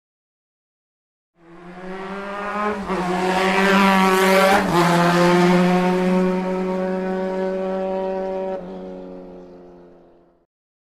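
Motorcycle engine running at steady revs, fading in about a second and a half in, loudest around the middle with a brief break in the note, then fading out near the end.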